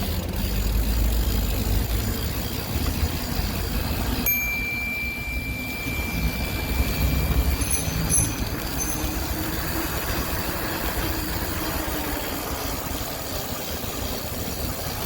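Riding a bicycle: wind rumbling on the microphone over road and tyre noise. About four seconds in, a bell-like ring holds for about two seconds.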